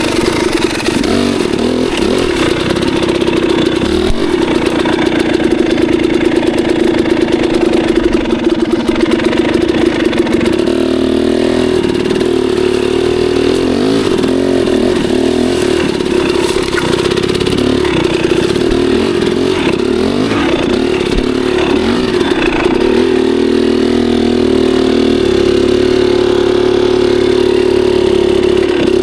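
Dirt bike engine running loudly under riding, the revs rising and falling.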